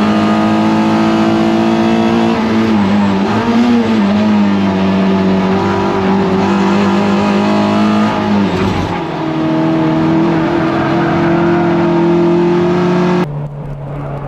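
Toyota MR2 race car engine running hard at high revs, a steady note with a brief drop in pitch about nine seconds in, as at a lift or gear change. Near the end it cuts off abruptly to a quieter, duller engine sound.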